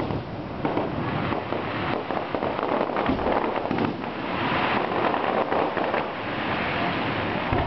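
Fireworks crackling: a dense, steady spatter of many small pops.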